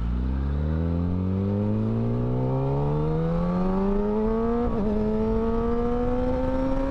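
Kawasaki Ninja ZX-10R's 1000 cc inline-four, with an M4 slip-on exhaust, accelerating hard from a standstill, the engine note climbing steadily. It shifts up once, with a brief dip a little under five seconds in, and keeps climbing in the next gear.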